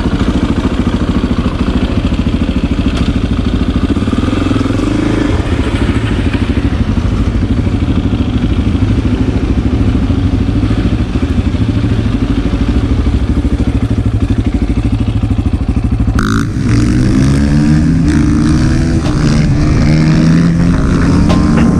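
Single-cylinder four-stroke dirt bike engine running steadily under way. From about three-quarters through, the revs rise and fall.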